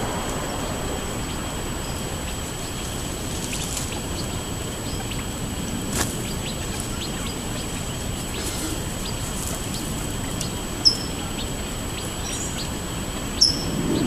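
A few short, high bird chirps over steady outdoor background noise, the two loudest about eleven seconds in and near the end. A single sharp click about six seconds in.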